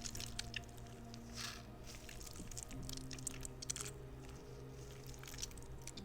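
Squishy rubber spider fidget toy being squeezed and kneaded by hand, giving irregular short sticky crackles and squelches, with a steady low hum underneath.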